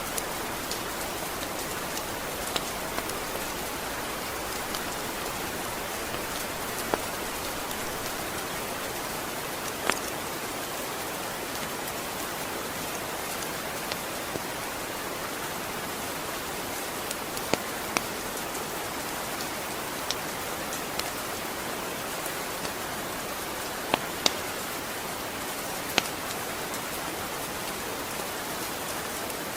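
Steady rain falling, an even hiss of drops on a surface, with scattered sharp taps from individual drops every second or two.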